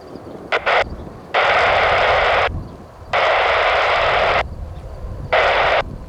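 Air-band radio static from the control tower frequency: a short double blip of hiss, then three bursts of hiss that switch on and off abruptly as the frequency is keyed with no voice heard, over a low steady rumble.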